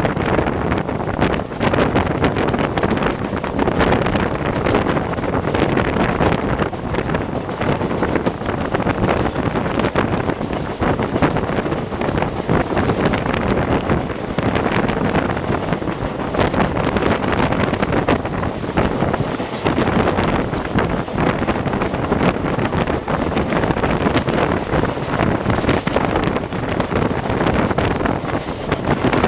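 Moving passenger train at speed: a steady rush of wind buffeting the microphone over the rumble and clatter of the coach running on the rails.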